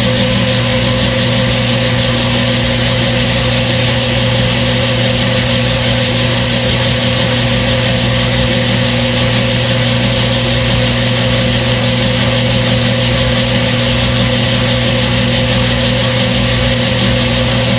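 Front-load washing machine running with a steady, unchanging motor hum and whir.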